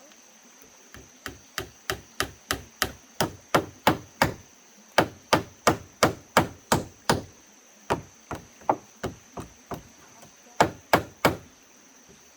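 Hammer striking wood, in four runs of quick blows about three a second, the blows in each run growing louder.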